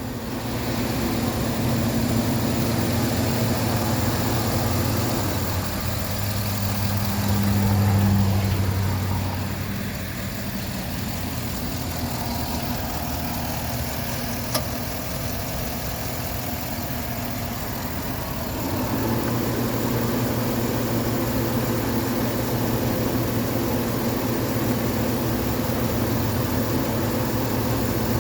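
2011 Chevrolet Silverado's 5.3-litre V8 running at idle, a steady engine note that swells louder around eight seconds in, eases off and fades somewhat through the middle, then comes back steady. A single sharp click is heard about halfway through.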